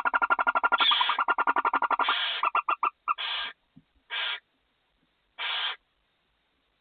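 Barn owls calling inside a nest box: a fast chittering run of about ten notes a second that stops around three seconds in, followed by four short hissing calls.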